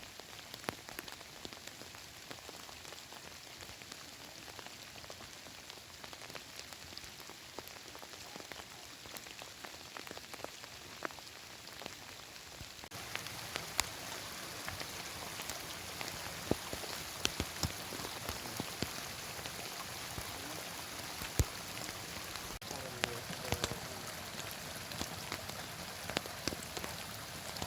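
Heavy rain falling steadily, with many individual drops striking close by. It grows suddenly louder about halfway through.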